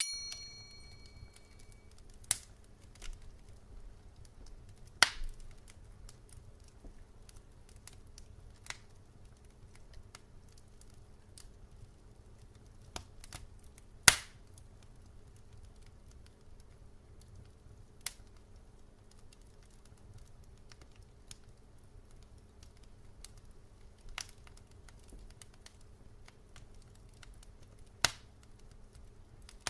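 Wood burning in a fireplace, crackling with sharp pops every few seconds; the loudest pop comes about halfway through. A short ringing chime sounds at the very start.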